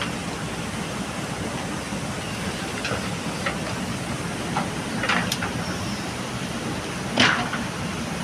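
JCB backhoe loader's diesel engine running steadily under load, with a few short knocks from the bucket and gravel, the loudest about seven seconds in.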